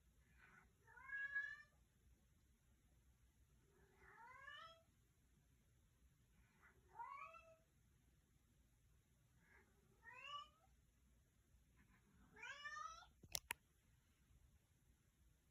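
Domestic cat meowing repeatedly, five rising-and-falling meows about three seconds apart. Two sharp clicks come near the end.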